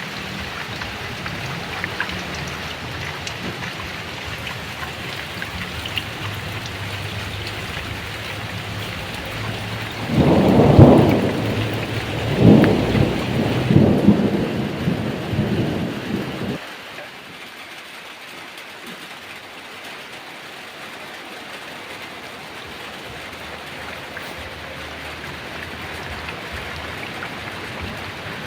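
Steady heavy rain with a thunderclap about ten seconds in that rumbles on in several swells for some six seconds and then cuts off suddenly; the rain is quieter after the thunder.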